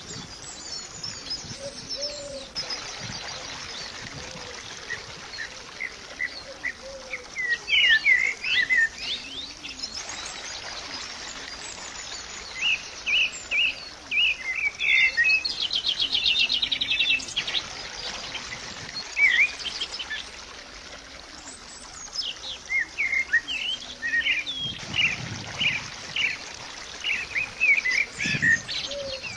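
Birds chirping and twittering in short, repeated calls over a steady hiss, with a fast trill about halfway through.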